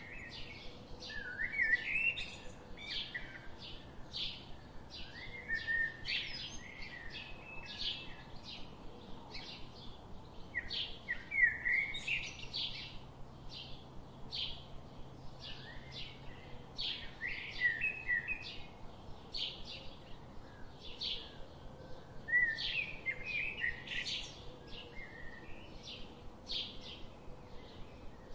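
Birds chirping: a steady run of short, high chirps, about two a second, broken every few seconds by quick warbling phrases.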